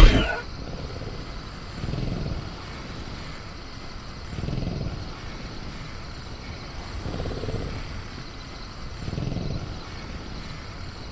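Sound-effect velociraptor making slow, low rumbling growls, one about every two and a half seconds, over a steady faint chirr of crickets. It opens on the tail of a loud bang, the cage being rattled.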